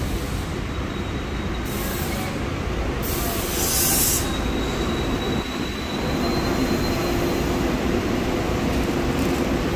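A SEPTA Regional Rail train rumbling along the platform track, with a thin, high wheel squeal starting about three seconds in and fading out a few seconds later. A short hiss comes about three seconds in, and a steady hum joins about six seconds in.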